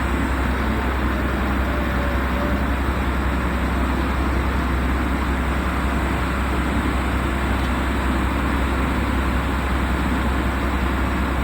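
Steady low drone of a ship's machinery running, an even rumble with a constant deep hum and no change in pitch.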